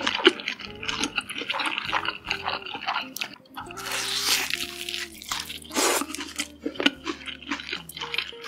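Close-miked eating sounds: a person chewing and biting into sauce-coated fried chicken, with wet, sticky clicks and louder crunches about four and six seconds in. Soft background music with held low notes plays underneath.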